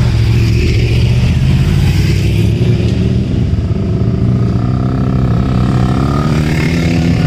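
Motorcycle engine running steadily while riding, with a constant rushing noise over it.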